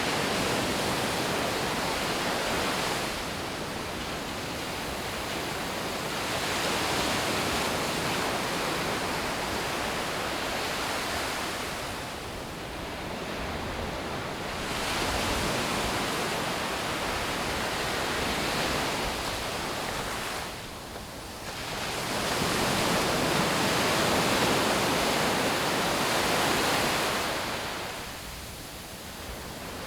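Sea waves breaking on the beach: a continuous rushing wash that swells and eases every several seconds.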